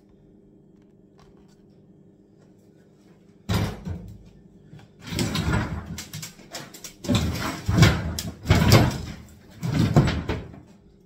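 A sudden knock about three seconds in, then several loud bursts of wood scraping and creaking as kitchen units, their screws mostly undone, are wrenched and pulled loose.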